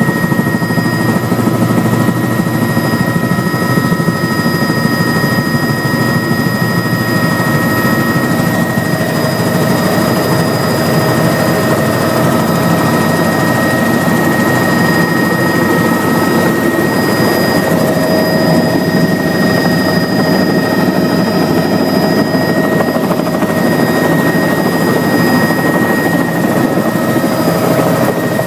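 Helicopter's turbine engine and rotor running steadily and loudly, a dense noise with a steady high whine over it.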